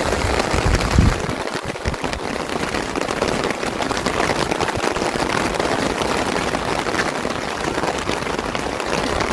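Heavy hail pelting down: a dense, steady clatter of countless hailstones striking hard surfaces, with a low rumble in the first second or so.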